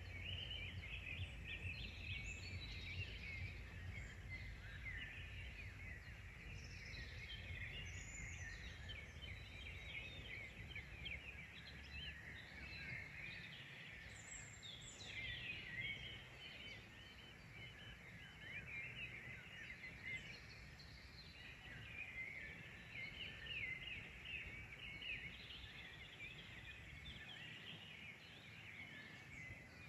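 Small birds singing and chirping continuously, many short calls and trills overlapping, with a low rumble underneath that fades away by about halfway.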